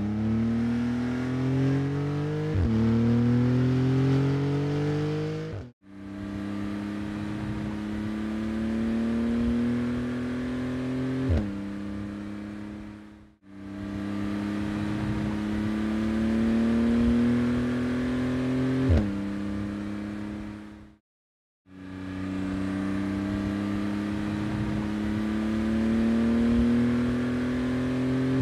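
Porsche 911 GT2 RS's 3.8-litre twin-turbo flat-six pulling hard under acceleration, its note climbing steadily and then dropping suddenly at each quick upshift of the PDK gearbox, about four times. The sound breaks off briefly three times between separate runs.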